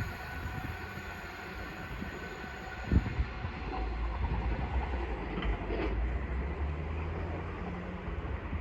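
Two coupled Class 387 electric multiple units running past with a steady low rumble, with one sharp knock about three seconds in.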